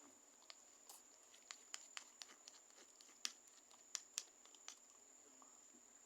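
Faint, irregular clicks and light scrapes of a utensil stirring a thick shampoo-and-conditioner slime mixture in a container, over a faint steady high-pitched whine.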